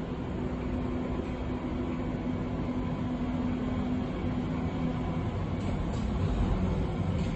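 Berlin U-Bahn train running on line U3: a steady rumble of wheels on rail, with a steady hum that fades out about five seconds in and a few faint clicks near the end.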